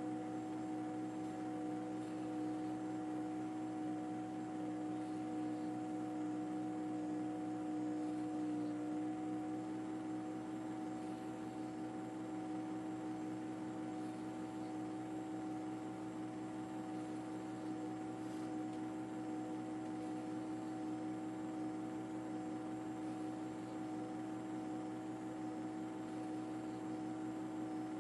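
Steady mechanical drone with several held tones over a faint rushing noise, unchanging throughout, like an engine or motor running at constant speed.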